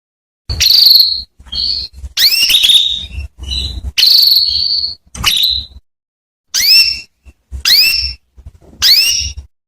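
Female domestic canary calling: a string of about nine short whistled call notes, many sweeping upward in pitch, with short gaps between them. These are the female's calls used to lure a male canary into song.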